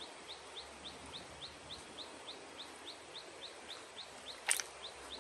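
A bird chirping over and over in a steady rhythm, about four short rising chirps a second. One sharp click or splash comes about four and a half seconds in.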